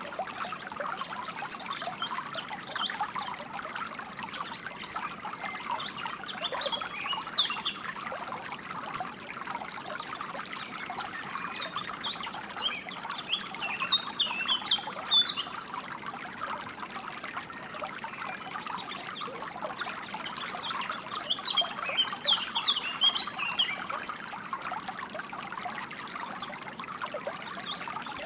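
Flowing water trickling steadily over stones, with birds chirping and singing above it in three spells of quick high notes, the last starting again near the end.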